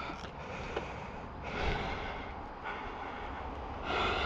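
A man breathing hard, with two long, heavy, noisy breaths about two and a half seconds apart: he is winded from the effort of moving a dirt bike that has run out of fuel.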